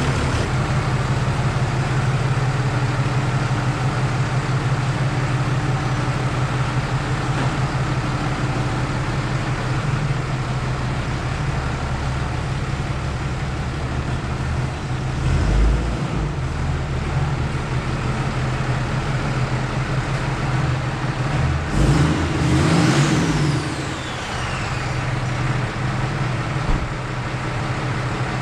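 Freshly swapped diesel engine of a 2012 Ram 3500 running steadily. It swells briefly twice, about halfway through and again around 22 seconds, when a high whistle falls in pitch.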